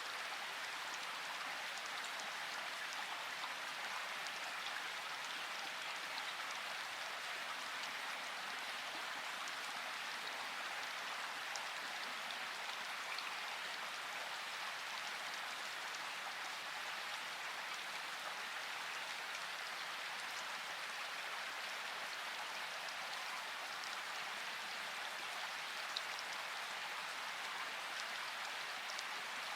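Steady rain falling, a constant hiss with scattered drop ticks and one slightly louder drop about 26 seconds in.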